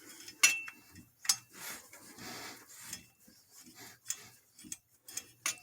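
Hand tools knocking against the engine while a spark plug and socket are worked into a cramped plug hole: a few sharp metallic clicks, spread out, with faint scraping and rubbing between them.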